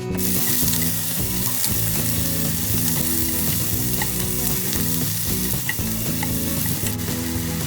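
Food frying in hot oil in a pan: a steady sizzle that starts suddenly, with a few small pops.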